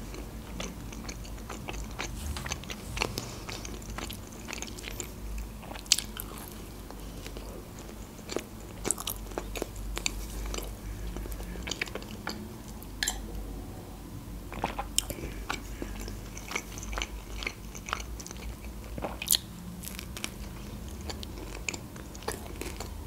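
Close-miked chewing of pizza: continual wet mouth clicks and smacks, with a few sharper crunches of crust.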